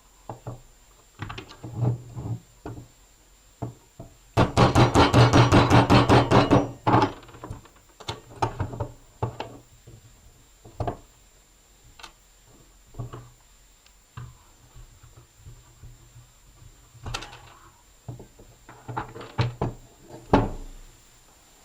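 Scattered knocks and clicks of tools and parts being handled while working on an old mechanical drill. About four seconds in comes a loud, rapid rattling run of about seven strokes a second that lasts about two and a half seconds.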